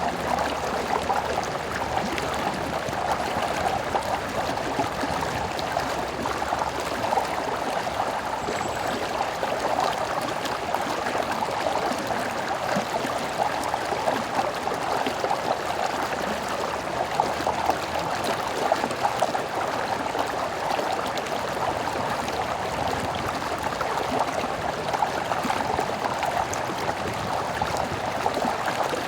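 A stream flowing: a steady rush of running water, with fine bubbling and splashing throughout.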